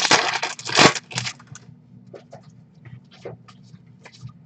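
Baseball trading cards being handled: a dense rustle for about the first second, then scattered light clicks and taps as cards are flicked and set down.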